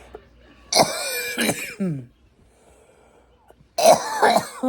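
A person coughing hard in two fits about three seconds apart, a harsh, voiced cough from smoking a blunt.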